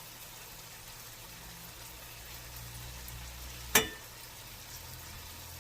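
Thin-cut chicken thigh pieces sizzling in a frying pan, a faint steady hiss over a low hum. A single sharp, ringing clink sounds a little under four seconds in.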